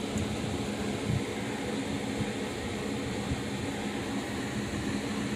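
Steady mechanical hum of a running motor, even and unchanging.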